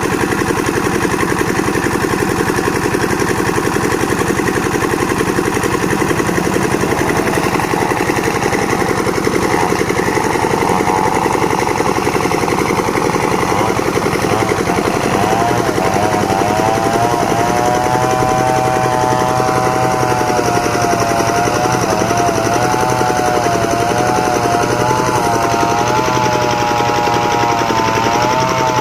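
Engine-driven board-making sawmill machine running steadily with a fast knocking beat; from about halfway a whining tone joins in, wavering up and down.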